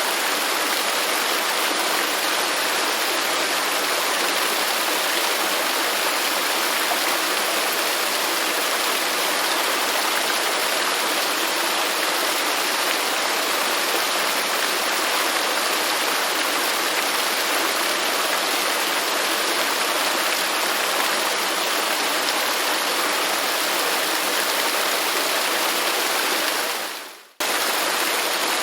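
Waterfall rushing, a steady dense wash of falling water. Near the end it fades out quickly and snaps straight back in, the seam of a looped recording.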